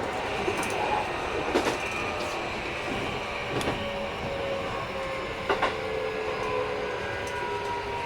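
Running noise of a Keikyu 1000 series train with a Mitsubishi IGBT inverter, heard from inside the car: steady rolling rumble with a few sharp wheel clacks over rail joints. A motor whine runs through it and sinks slightly in pitch in the second half; the uploader finds this set a little noisier than other trainsets.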